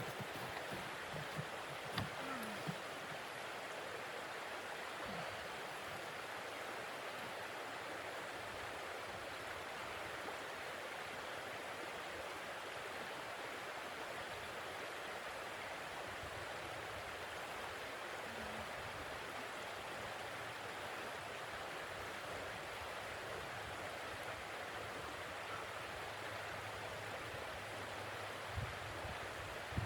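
Snowstorm wind blowing as a steady, even hiss, with a few faint low knocks near the start and again near the end.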